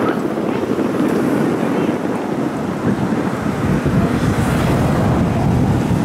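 Tokyo Metro 9000 series electric train running across a railway bridge: a steady rumble of wheels on rails that deepens about four seconds in, with wind buffeting the microphone.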